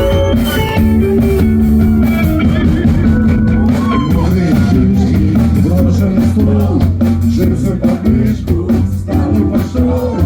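Live rock band playing an instrumental intro: guitars over a steady drum beat.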